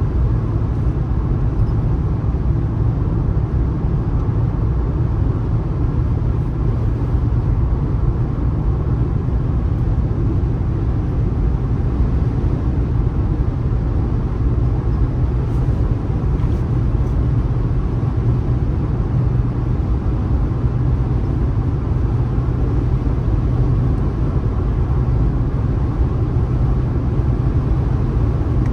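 Steady low rumble of a car driving along the road: tyre and engine noise at an even level.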